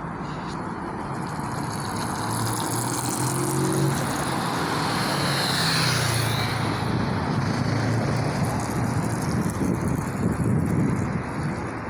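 A truck driving past, its engine and tyre noise growing louder over the first few seconds and dropping off near the end.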